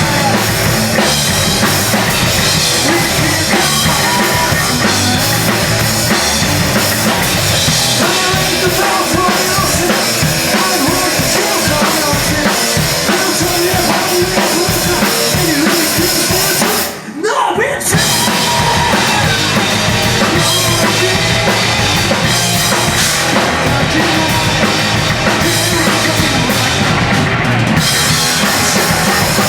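Rock band playing loud, with a drum kit prominent and the music filling every range. The band stops briefly about 17 seconds in, then comes straight back in at full volume.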